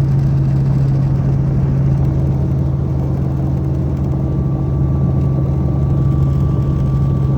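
Helicopter engine and rotor running steadily: a loud, even drone with a strong low hum. A faint thin high whine joins about halfway through.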